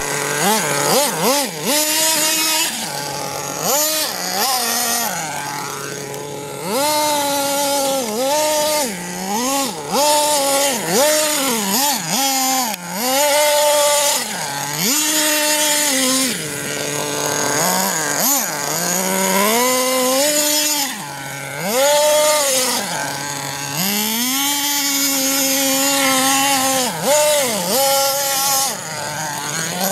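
Small nitro engine of a Redcat Avalanche XP radio-controlled truck, revved up and down over and over as it is driven: the pitch climbs sharply, holds high for a second or two, then drops back toward idle, many times over.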